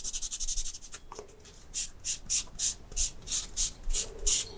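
Old thermal paste being rubbed off a CPU heatsink: fast scrubbing strokes, a short pause about a second in, then slower, evenly spaced rubbing strokes about four a second.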